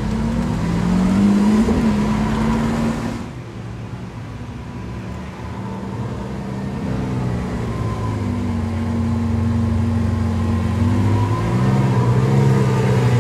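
Lamborghini Sián FKP 37's V12 engine running as the car rolls slowly past, its pitch rising and falling with light throttle. The sound drops off suddenly about three seconds in, then the engine note builds again and holds steady before rising once more near the end.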